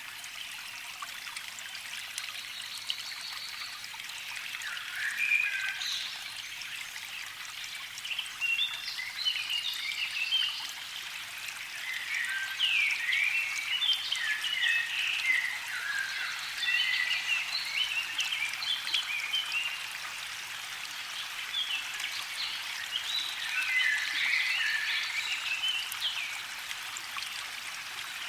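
A songbird sings in bouts of quick, twittering phrases, over a steady hiss of trickling water.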